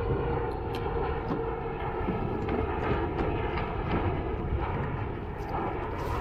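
A distant engine drones steadily under a low rumble, with a few light ticks.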